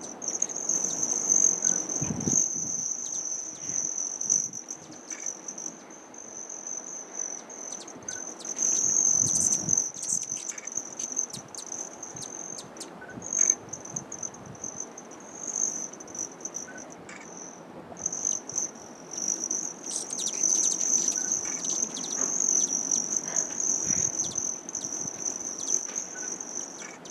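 Steady high-pitched trilling of crickets in an insect chorus, with scattered short high chirps and a few brief low rumbles.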